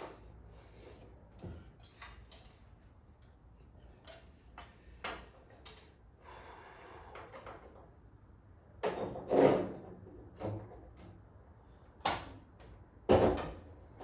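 Scattered knocks and clatters of tools and metal parts being handled during hands-on work inside a car, with two louder thuds about nine and thirteen seconds in.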